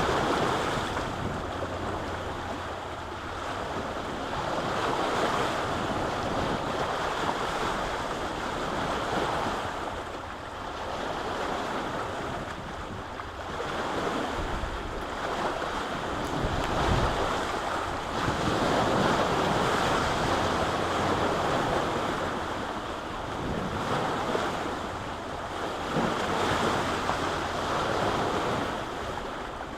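Lake waves washing against the shore, swelling and falling away every few seconds, with wind gusting on the microphone.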